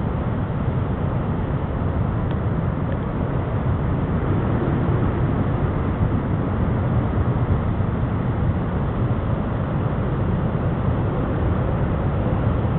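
Hurricane eyewall wind blowing steadily and hard, buffeting the microphone with a constant low rumble.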